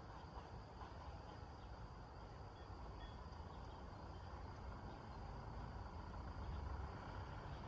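Faint outdoor ambience: a steady low rumble like distant road traffic, with a few faint, brief high chirps from birds or insects.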